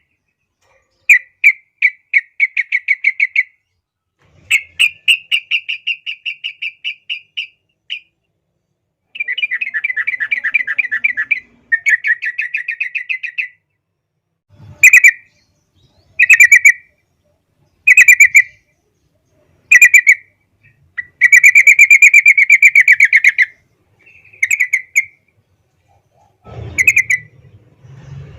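Yellow-vented bulbul (trucukan) singing in a loud, lively way: bubbly phrases of rapid chattering notes lasting one to two seconds, then short single calls about every two seconds. A brief low rumble comes near the end.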